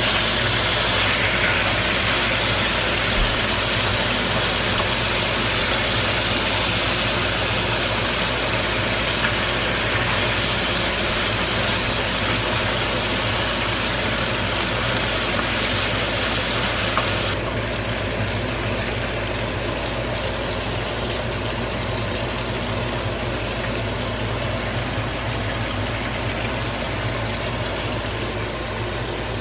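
Chicken pieces frying in a cast-iron skillet, sizzling steadily in their rendered fat as the marinade cooks down to the oil, over a steady low hum. A little past halfway the bright top of the sizzle drops off suddenly, leaving a duller hiss.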